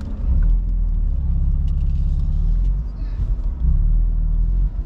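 BMW M3's S55 twin-turbo inline-six running steadily at low revs, heard from inside the cabin; the low note gets louder about half a second in.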